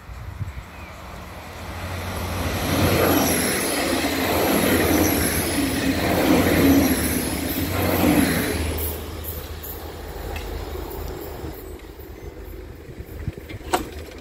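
An erixx regional train passing on the tracks. Its rumble and wheel noise build over the first few seconds, peak as it goes by, and die away after about nine seconds. A single sharp click sounds near the end.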